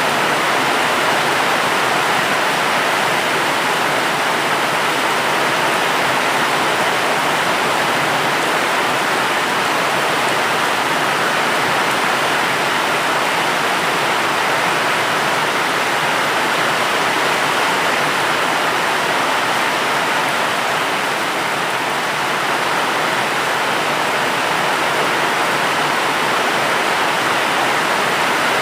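Steady heavy rain: an even, unbroken hiss with no separate drops or thunder standing out.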